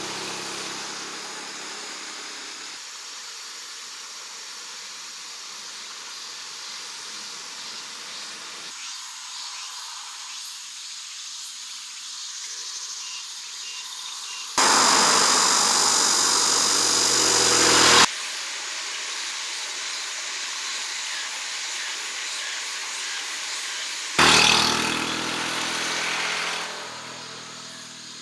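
Small motorcycle engine running, heard across several cut-together shots. There is a loud rushing noise for a few seconds in the middle, and the engine is clearest near the end before fading away.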